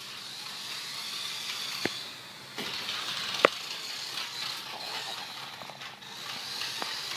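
Toy remote-control car's small electric motor whining as it drives, with its wheels rolling over the floor. There are two sharp knocks, the louder one about halfway through.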